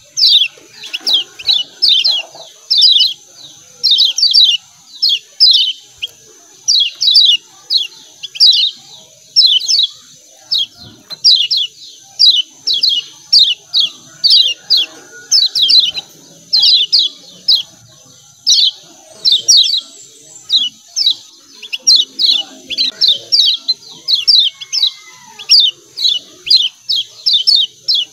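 Kecial kuning (Lombok yellow white-eye) giving a continuous run of 'ciak ciak' chirps: short, sharply falling high notes in quick clusters of two to four, repeating about once or twice a second. A steady high hiss runs underneath.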